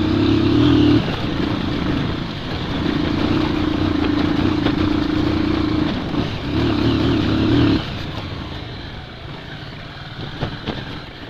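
Bajaj Pulsar 200's single-cylinder engine pulling under throttle at a steady pitch in three stretches, easing off between them, then dropping back to a lower, quieter run about eight seconds in.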